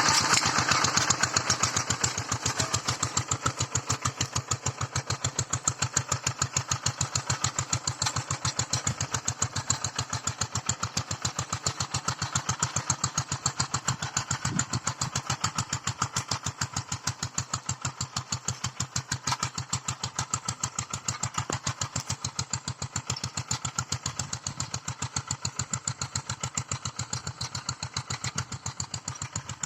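Walk-behind hand tractor's engine running with a steady, rapid chugging beat while plowing, slightly louder in the first couple of seconds.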